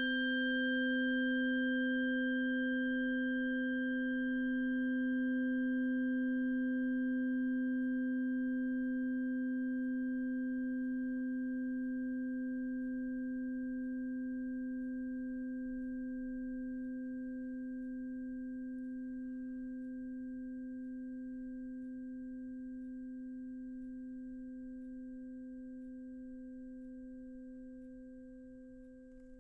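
A struck sound-healing instrument ringing one long, low, pure tone that slowly dies away. Its highest overtones fade within the first few seconds.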